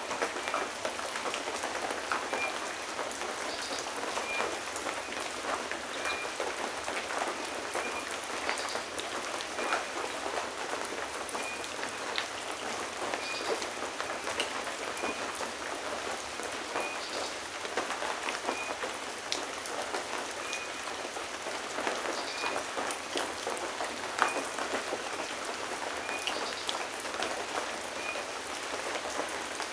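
Steady rain falling, with scattered individual drops striking close by. Through it a short, high chirp repeats about once a second.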